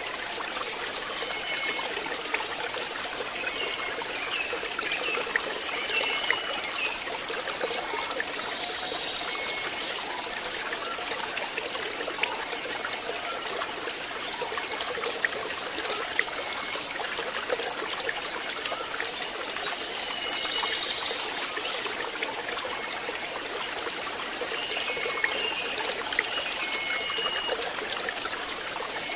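Water trickling and splashing steadily into a fish pond. Brief high chirps come and go now and then.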